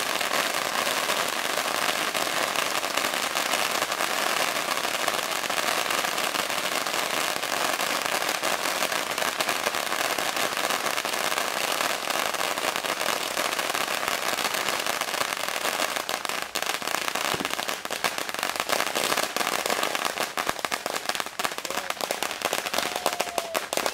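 A giant roll of firecrackers going off in a continuous rapid crackle of bangs. It thins out toward the end into separate, scattered cracks as the roll burns down.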